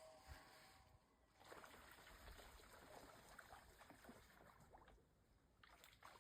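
A common loon's wail, one long held note that fades out about a second in, followed by faint water lapping with small splashes.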